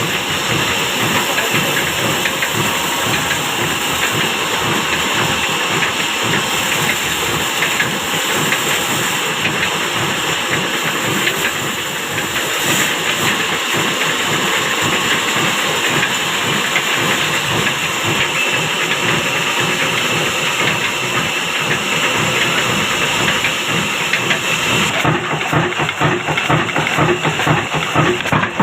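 Old black diesel engine running steadily, a rapid even pulsing with a hiss over it. About 25 seconds in, the hiss in the upper range falls away and the low thumping of the firing comes forward.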